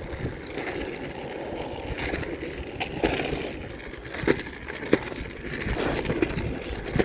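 Bicycle being ridden: a steady low rumble of tyres and wind on the microphone, with a few sharp clicks and rattles and two short hisses.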